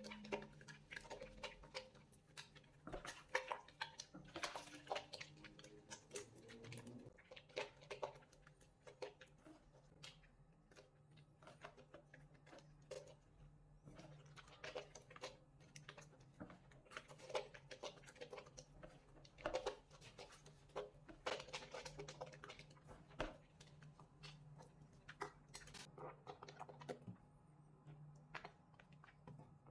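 Bar of soap being lathered by hand: irregular wet squishing and crackling of suds and foam, quiet and close, with a faint steady low hum underneath.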